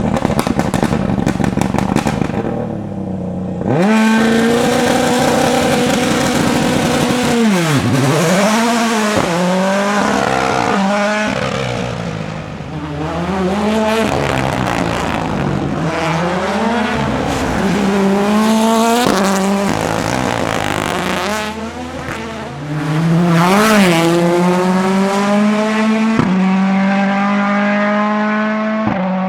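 Ford Puma Rally1 car's 1.6-litre turbocharged four-cylinder engine driven hard, revving up and dropping sharply in pitch at each quick gear change, over and over. A rapid crackle of popping runs through the first few seconds.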